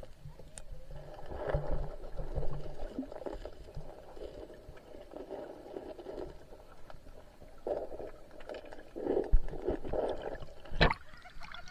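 Water sloshing and splashing in a shallow stream, coming in irregular surges, with a sharp knock near the end.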